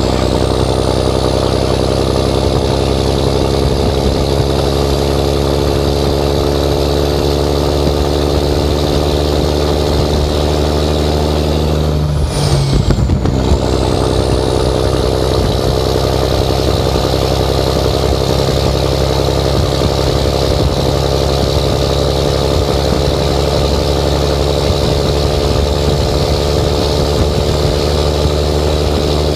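Straight-piped Series 60 Detroit diesel in a loaded Freightliner truck pulling hard, revs climbing slowly in gear. About twelve seconds in the revs drop for an upshift of the 13-speed Eaton, then the engine climbs under load again. A high turbo whistle rises and falls with the revs.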